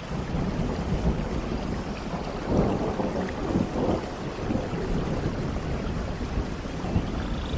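Heavy rain falling with a low, steady rumble of thunder, swelling into a louder crackling peal about two and a half seconds in.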